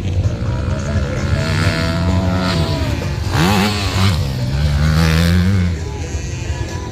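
A 250cc motocross bike's engine revving under throttle, its pitch rising and falling. About three seconds in the revs drop sharply and climb again, and the engine gets quieter near the end.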